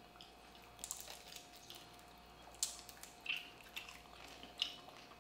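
Faint, wet mouth sounds of chewing a chewy deep-fried rice paper roll filled with chocolate: a scattering of short smacks and squishes.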